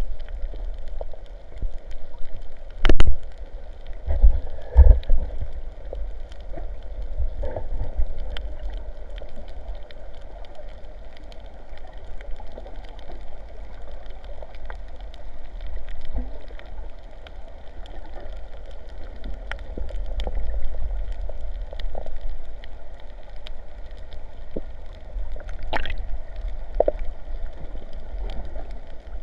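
Muffled sloshing and gurgling of sea water around the microphone, under a steady low rumble, with scattered knocks; the loudest knocks come about three, five and twenty-six seconds in.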